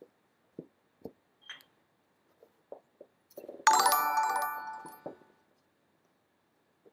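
An electronic alert chime rings out once, suddenly, about three and a half seconds in, and dies away over about a second and a half. It is preceded by a few faint knocks and clicks.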